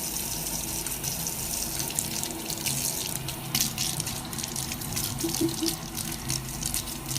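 Water running steadily, with many small splashy ticks through it.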